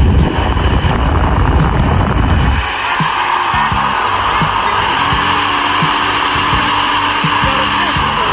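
An 800-watt handheld hair dryer blowing air with a steady whoosh. A heavy low rumble in the airflow drops away about three seconds in.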